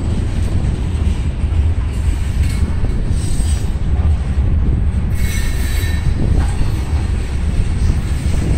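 Freight train's covered hopper cars rolling past, a steady heavy rumble of wheels on rail. About five seconds in, a brief high wheel squeal rings out over the rumble.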